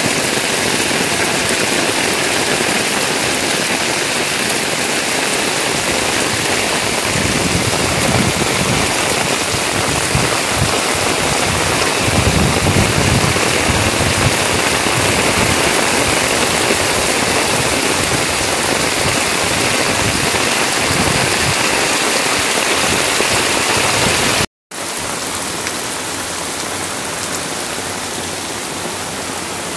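Heavy rain pouring onto a flooded street, a steady dense hiss of rain striking pavement and running water. It cuts out for an instant about three-quarters of the way through, then carries on a little quieter.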